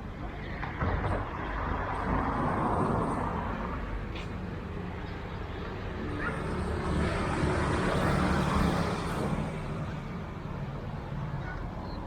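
Road traffic going past: two vehicles swell up and fade away, one about two seconds in and a louder one about eight seconds in, over a steady background of street noise.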